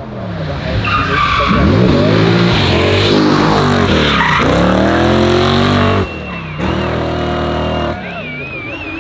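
Hillclimb race car engine revving hard, its pitch falling and climbing again several times as it brakes, shifts and accelerates. About six seconds in it drops to a lower level, and high wavering tyre squeals sound over the engine.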